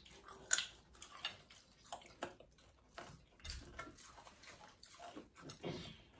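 People chewing fried chicken tenders: faint, irregular crunches and mouth clicks.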